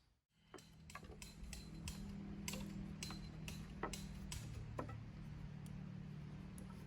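Sharp, irregular clicks and ticks, one or two a second, over a steady low hum.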